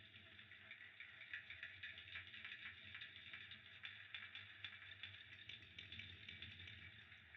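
Wood fire in a fireplace crackling quietly: a soft steady hiss with many small irregular pops and snaps.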